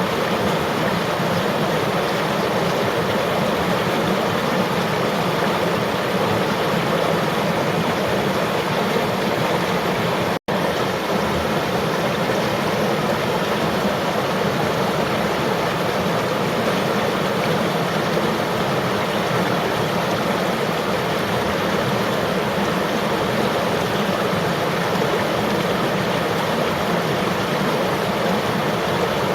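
Flowing river water, a steady rushing sound that cuts out for an instant about ten seconds in.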